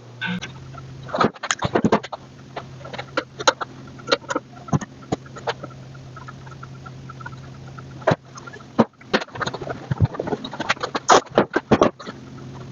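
Hand snips trimming a piece of steel rocker panel: irregular runs of sharp clicks and crunches as the blades chop through the sheet metal, with short pauses, over a steady low hum.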